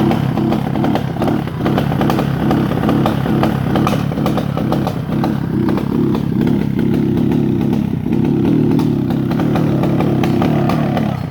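Yamaha Banshee ATV's twin-cylinder two-stroke engine running steadily, with a rapid crackle of firing pulses.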